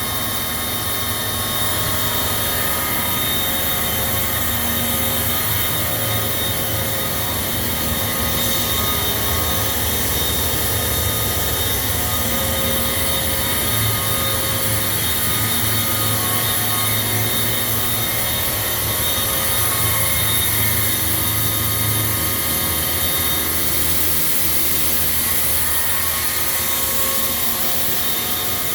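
Pneumatic grain vacuum running steadily: an even, loud rush of air with several steady whining tones over a low hum.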